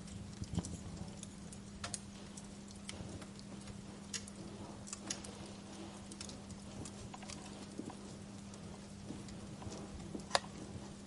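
Wood fire crackling: irregular snaps and pops, with a louder pop about ten seconds in, over a low steady hum.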